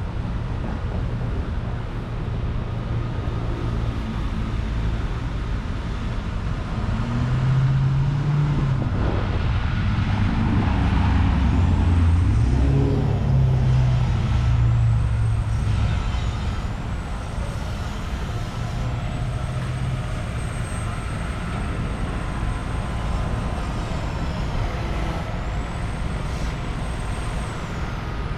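Road traffic: motor vehicles running past with a steady rumble. A heavier engine swells and fades between about a quarter and half of the way through.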